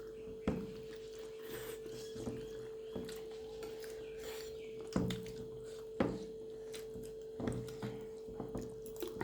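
Eating at a table: a few sharp clicks and knocks, with small rubbing and chewing noises in between. A steady hum runs under them.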